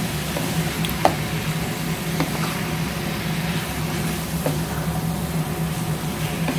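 Chicken, onions, tomatoes and bell pepper sizzling in a hot pot as they are stirred with a wooden spatula, with a few sharp knocks of the spatula against the pot, the loudest about a second in. A steady low hum runs underneath.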